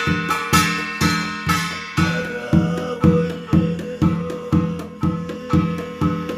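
Korean shamanic ritual music: a piri (double-reed pipe) plays a sustained, buzzing melody over a buk drum beating a steady rhythm of about two strokes a second.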